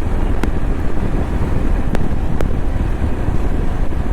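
Wind buffeting the microphone while riding a motorcycle at highway speed, with the engine and road noise underneath and a few light ticks.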